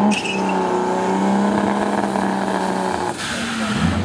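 Nissan Skyline RB20 straight-six in a Toyota Hilux, held at high, steady revs during a burnout. The engine note stops abruptly about three seconds in.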